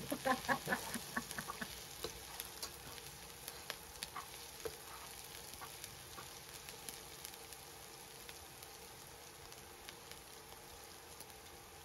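Minced garlic and chopped onion sizzling in hot oil in a nonstick wok, with a metal slotted spatula scraping and tapping the pan in quick strokes over the first couple of seconds. After that a steady, fainter sizzle with an occasional click of the spatula.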